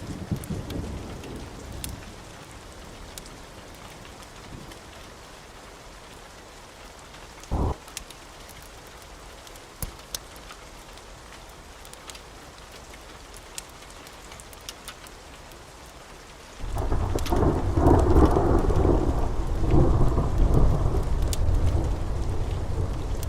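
Steady rain falling, with a short thump about a third of the way in. About two-thirds of the way in, a loud roll of thunder breaks in and rumbles on.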